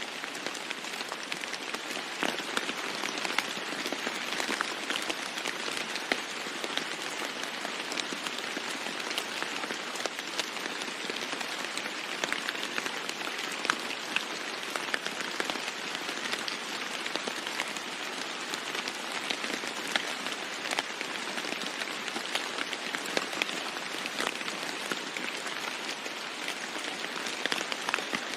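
Steady rain falling on a roof, an even hiss dotted with many sharp single drop hits.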